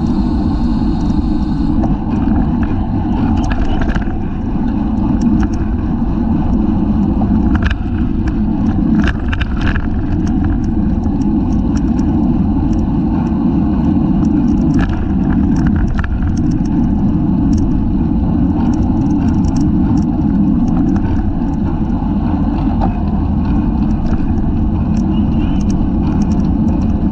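Steady wind noise buffeting the microphone of a rear-facing bicycle-mounted camera while riding, with scattered short clicks and rattles.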